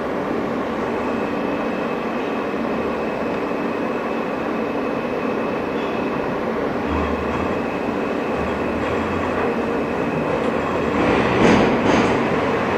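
An R160 subway car running along the track, heard from inside: a steady rumble of wheels and rails with a faint steady high tone. It grows louder near the end with a few sharp rail sounds.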